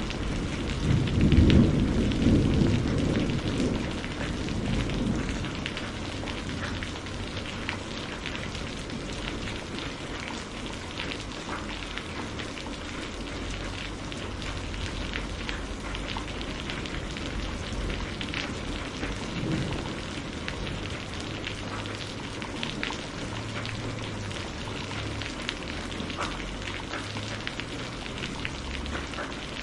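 Steady rain falling on a surface, with scattered drops ticking. A low rumble of thunder swells about a second in and fades over the next few seconds, and a fainter low rumble comes near the two-thirds mark.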